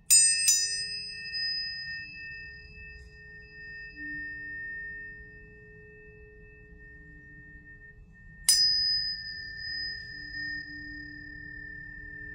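Planetary tuning forks struck: two strikes in quick succession at the start, then a third about eight seconds later. Each strike gives a sharp metallic attack, then several high, pure tones that ring on and fade slowly over a steady lower hum.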